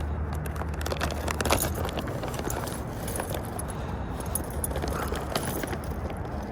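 Rummaging through fishing tackle in search of a hook: small hard items clicking and rattling against each other at irregular moments.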